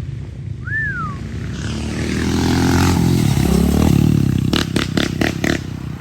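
Dirt bike engine revving as a rider passes close by, getting louder to a peak in the middle and then fading. Near the end comes a quick run of sharp clacks.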